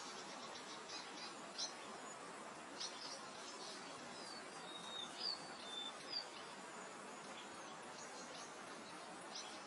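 Steady soft wind over open grassland, with small birds chirping: quick high chirps and a few short whistled notes, mostly in the first two-thirds and again briefly near the end.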